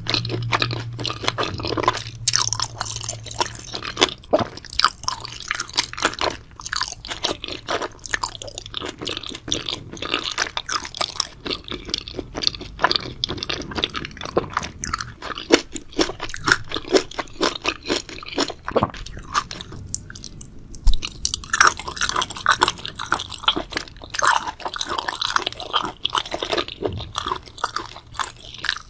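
A person chewing crunchy food close to the microphone, with a steady run of crunches and wet mouth clicks and a short pause about two-thirds of the way through.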